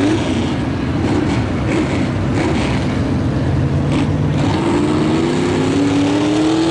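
V8 engine of a mud-bogging Chevy Blazer revving up and down several times, then held in one long climbing rev near the end before the throttle comes off.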